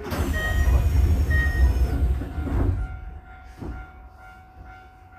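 Electric commuter train at a station: a loud rumble with brief high tones that starts suddenly and lasts about three seconds, then a quieter steady hum.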